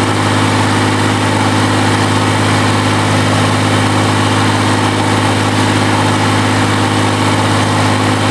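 QC385 three-cylinder diesel engine of a stationary diesel power unit, running steadily at a constant speed with an even, unchanging drone.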